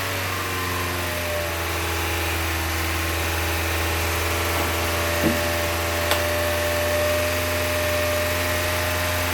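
LS V8 engine idling steadily while it warms up after a coolant refill, its thermostat not yet open, with a small knock about five seconds in.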